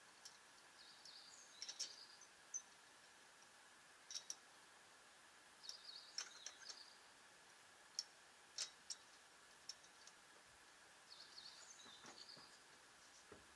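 Faint chirps of small birds in short clusters, three times, over near-silent background hiss, with a few sharp faint clicks in between.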